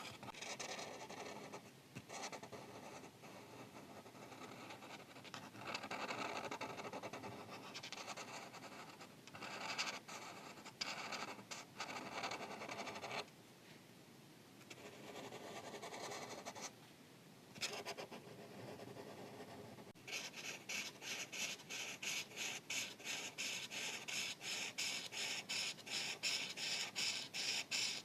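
Marker tip scratching over paper in coloring strokes, with two short pauses partway through. In the last third the strokes turn into quick, even back-and-forth scribbling.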